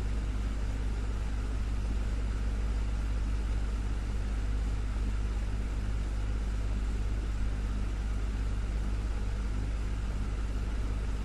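Desktop fan running steadily: an even rush of air over a constant low motor hum.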